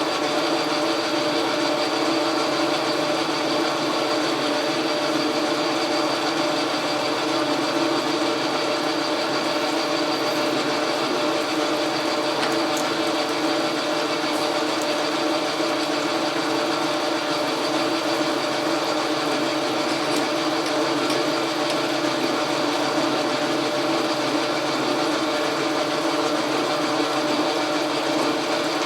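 Logan metal lathe running steadily, its motor, belts and gearing making a constant hum of several steady tones.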